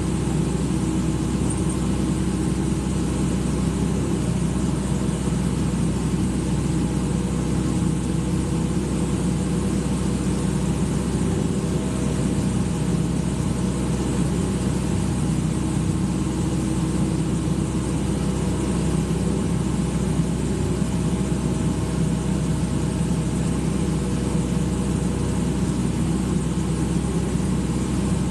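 Excavator's diesel engine running steadily, with a faint whine that comes and goes.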